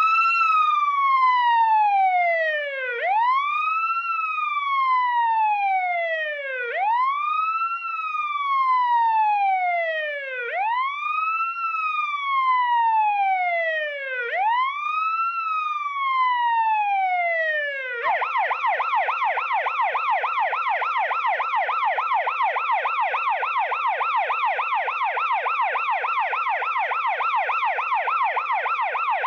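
Electronic emergency-vehicle siren in wail mode, its tone rising quickly and falling slowly about every four seconds, five times over. About two-thirds of the way through it switches to a rapid yelp, warbling up and down several times a second.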